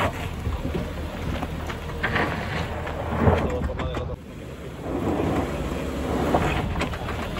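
Suzuki Jimny's engine running as the 4x4 crawls slowly through a cross-axle rut on dirt, with one wheel lifted and the traction control working to brake it. Wind rumbles on the microphone, and the level dips briefly about four seconds in.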